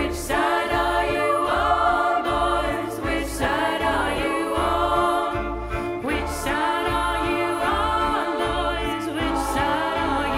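Choir and solo voices singing together in a live performance of a folk song, several voice parts layered, over a low pulse about once a second.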